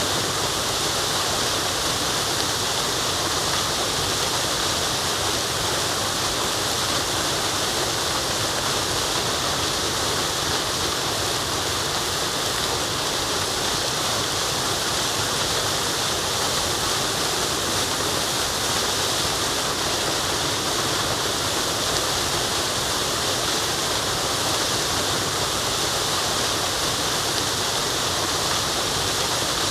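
Waterfall, a steady rush of falling water with a strong hiss and no breaks or changes.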